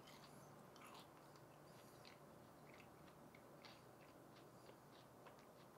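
Near silence, with faint scattered small mouth clicks from chewing a battered deep-fried pickle.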